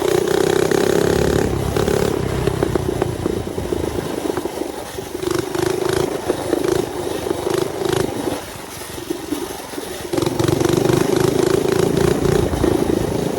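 Mini bike's small engine running as it is ridden. It pulls strongly for the first couple of seconds, eases off through the middle, then opens up again about ten seconds in.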